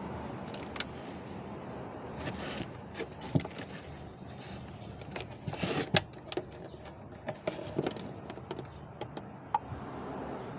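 Scattered light clicks and knocks of hand work with tools and resin containers, with a brief rustle about six seconds in, over a faint steady background.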